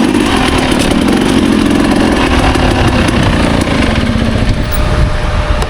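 Two-stroke dirt bike engine running steadily under the rider, with a rushing noise over it; the engine note eases off about four and a half seconds in.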